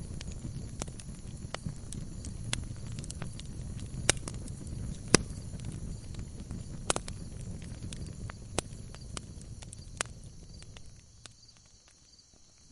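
Wood fire crackling in a fireplace: a low rumble of flames with irregular sharp pops of burning logs, three of them louder around the middle. The sound sinks nearly to silence about eleven seconds in.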